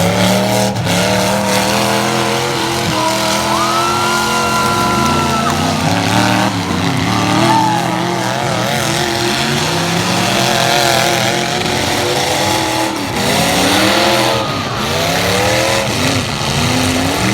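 Light-truck engines in a demolition derby revving up and falling back unevenly, several at once. A thin, high squeal is held for about two seconds, about four seconds in.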